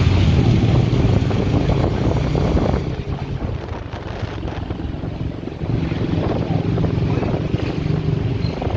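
Riding on a motorcycle: wind buffeting the microphone over the engine. It eases off about three seconds in and picks up again about two and a half seconds later.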